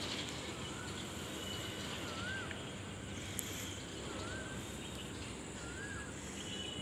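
Steady outdoor background noise with a bird calling: short wavering chirps, about five of them, spread every second or so.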